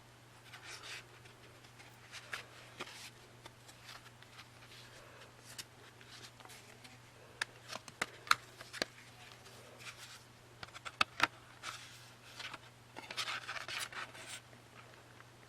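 Hands handling CD cases and paper packaging: scattered rubbing and rustling with a run of sharp clicks about halfway through and again a little later, over a steady low hum.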